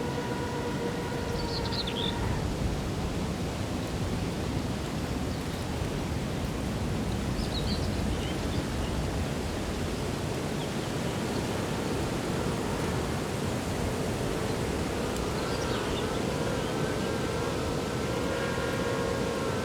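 Steady rushing outdoor background noise, with a steady droning tone that stops about two seconds in and comes back near the end, and a few faint bird chirps.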